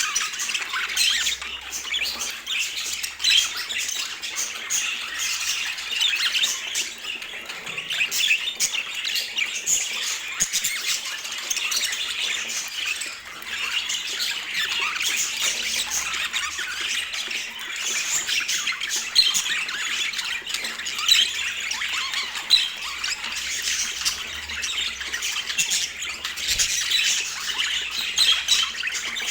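Budgerigars chattering: a dense, unbroken stream of high chirps and squawks.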